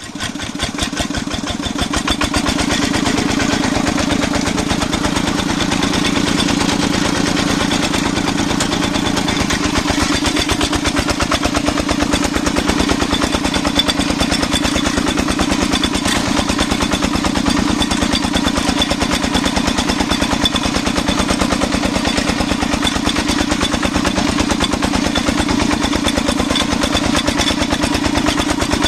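Single-cylinder diesel engine of a công nông farm truck chugging steadily, a rapid, even train of firing knocks, building up over the first two seconds and then holding, as the truck works up a slope.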